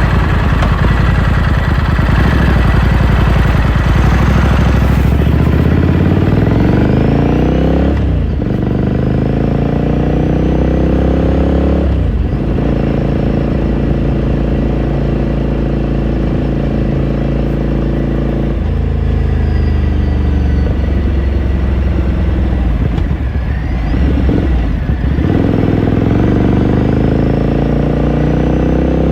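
Ducati Scrambler Sixty2's air-cooled V-twin engine and exhaust, heard onboard while riding. It pulls up through the gears, with the pitch climbing and then dropping at the shifts about 8 and 12 seconds in. It then cruises steadily, eases off after about 18 seconds, and accelerates again near the end.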